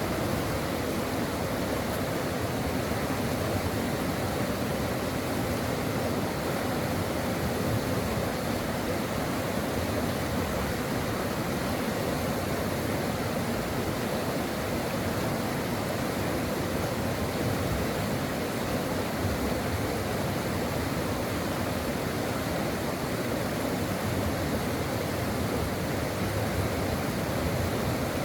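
A stream flowing: water rushing in a steady, even wash with no breaks.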